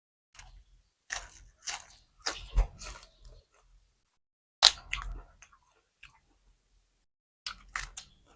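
Close-miked chewing of crunchy food, in five short bursts of wet crackling crunches with pauses between; the sharpest crunch comes about halfway through.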